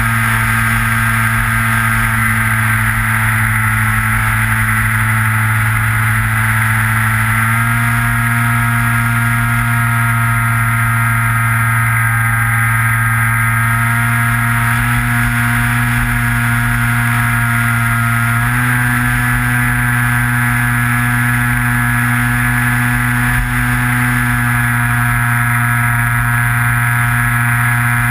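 Electric motor and propeller of a Skywalker FPV plane, heard close up from the onboard camera, running with a steady drone that steps up slightly in pitch twice as the throttle is nudged up. Gusty wind rumbles on the microphone underneath.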